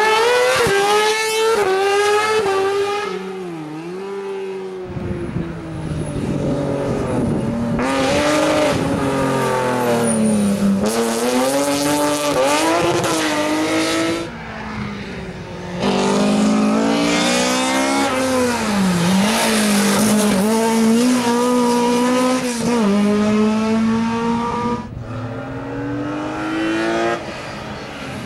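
Rally cars racing hard on a tight stage: engines revving high, the pitch climbing through each gear and dropping again as they lift off and brake, many times over. The engine noise dips briefly about halfway through and again near the end.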